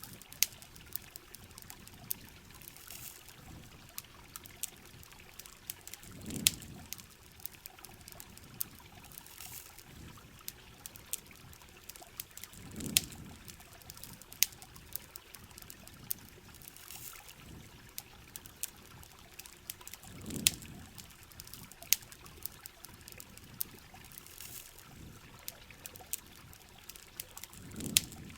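Heavy rain and campfire ambience: a steady rain hiss with many sharp pops and drips, and a soft low whoosh about every seven seconds.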